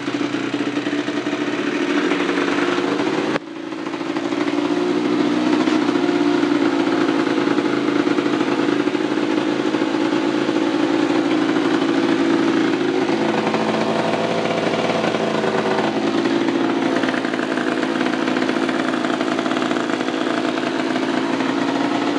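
Kawasaki KDX 125's two-stroke single-cylinder engine running steadily at a fairly even speed, with a short break about three and a half seconds in.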